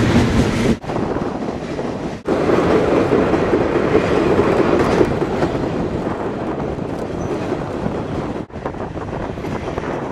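Steady rumble and rail noise of a moving passenger train, heard from aboard one of its cars. The sound cuts out for an instant three times.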